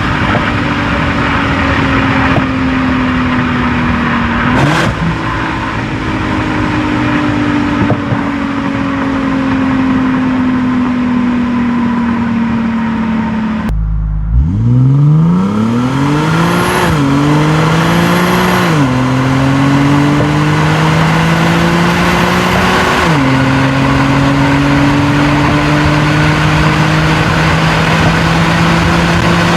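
2010 Infiniti G37 sedan's 3.7-litre V6 engine and exhaust while driving. In the first half the revs fall slowly, with one brief step up about five seconds in. After an abrupt break about halfway through, the engine pulls hard: the revs climb steeply and drop sharply at three gear shifts, then keep rising.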